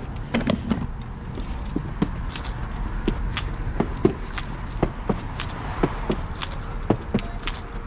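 Footsteps with light clicks and knocks, about two to three a second, over a steady low hum.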